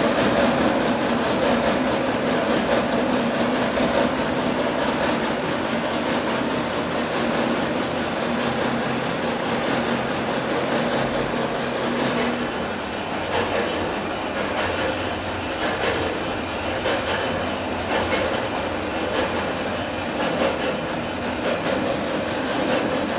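Steady rumble and rattle of a moving vehicle, with a low hum that fades out about halfway through.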